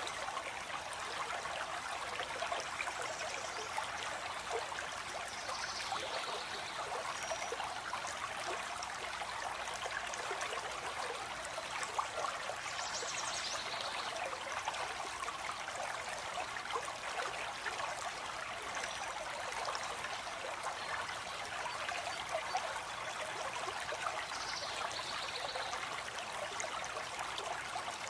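Stream water flowing and trickling steadily. A bird gives a short high call three times, spread through.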